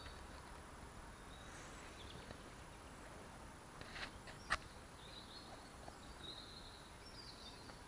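Faint woodland birdsong: short, thin, high twittering phrases over a quiet background hiss, with a sharp click about four and a half seconds in.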